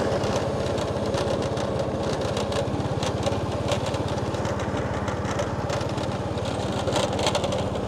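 Motorbike engine running steadily at low road speed, with a fast, even pulse.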